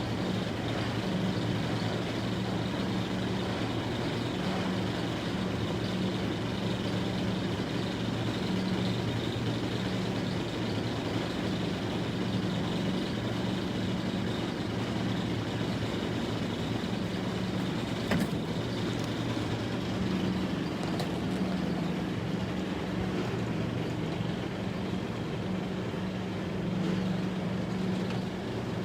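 Car running with a steady low engine hum and road noise, and a single click about 18 seconds in.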